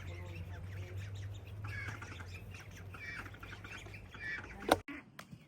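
Ducks quacking, a run of short calls one after another over a low steady hum. A sharp click comes near the end, then the sound cuts off abruptly and drops much quieter.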